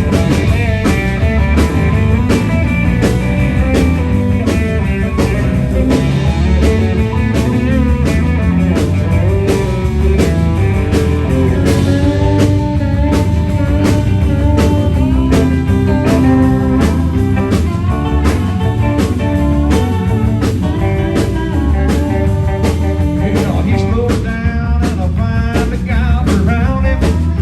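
A band playing an up-tempo blues-rock tune: electric guitar lines over a steady drum beat of about two hits a second, with bass underneath.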